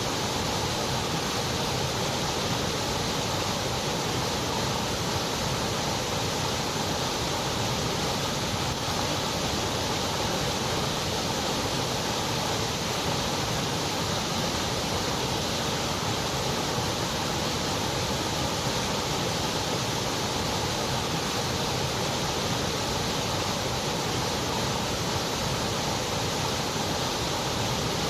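Steady white noise: an even, unchanging hiss with no events in it and the highest treble cut away.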